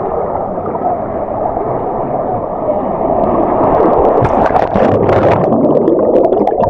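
Water rushing down a pool water slide, heard from an action camera riding the slide. From about three seconds in, sharp splashing is added and the sound gets a little louder.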